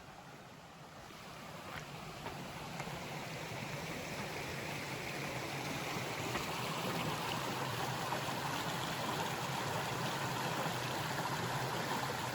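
Double Run creek rushing and splashing over its rocks, growing louder over the first several seconds as it comes nearer, then steady.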